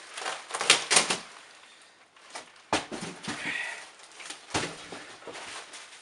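Packaging and the boxed vacuum cleaner being handled and lifted: rustling and scraping of wrapping in the first second, then two sharp knocks about a second and a half apart, with a short squeak between them.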